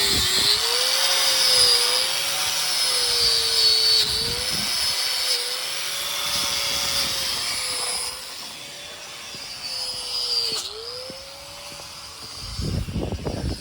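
A machine's motor running steadily, with a slightly wavering whine over a loud hiss. It eases off about eight seconds in and stops near the end.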